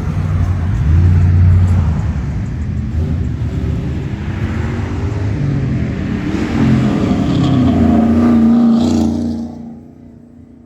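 Car engine rumbling as it drives slowly past, revving up about six seconds in, then cutting off sharply near the end.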